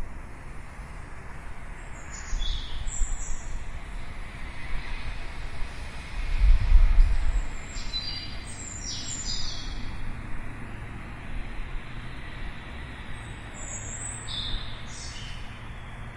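Small birds chirping in short clusters of quick high notes, several times. Under them runs a steady outdoor background hiss with a low rumble that swells about six seconds in.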